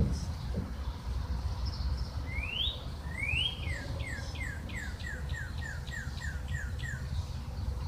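A songbird singing: two rising whistled notes, then a quick run of about ten short falling notes, roughly three a second, over a low steady rumble.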